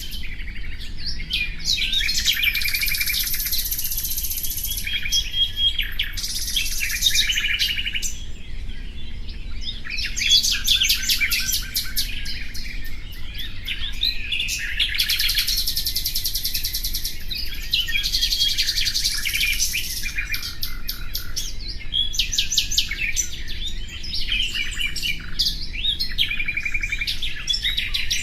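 Common nightingale singing: a near-continuous run of song phrases made of rapid trills and quickly repeated notes, one phrase after another with only brief pauses.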